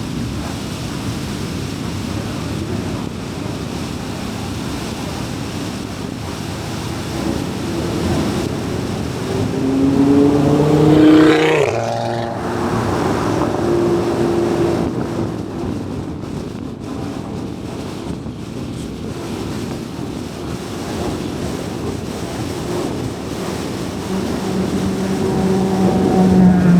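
Steady tyre and road noise of a car cruising on an expressway. About eleven seconds in, another vehicle passes close by, its engine pitch rising and then dropping sharply as it goes past. Near the end another vehicle's engine grows louder.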